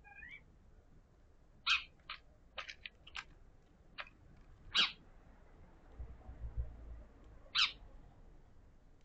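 Domestic cat chattering at birds: a scattered series of short, sharp chirps, about seven of them, the loudest around five seconds in. A low rumble comes in briefly about six seconds in.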